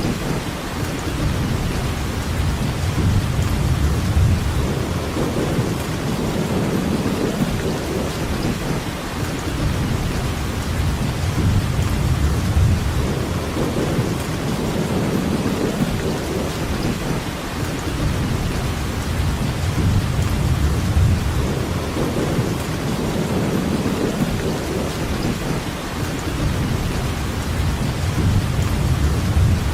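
Steady rainfall, an even hiss, over a low rumble that swells and fades every few seconds.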